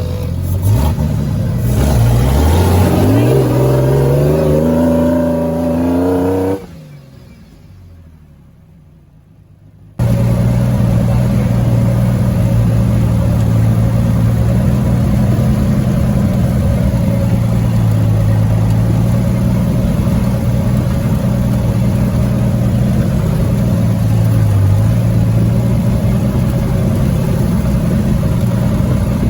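Off-road vehicle engine revving up, rising in pitch for a few seconds, then dropping to a much quieter low rumble about six seconds in. From about ten seconds in it runs steadily at an even pitch.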